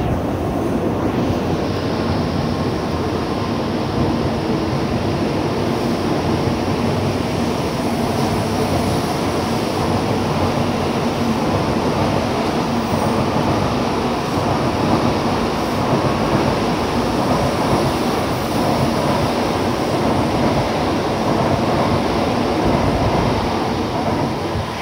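N700A Shinkansen train departing, its cars running past at close range with a loud, steady rushing noise. The noise drops away sharply at the very end as the last car clears.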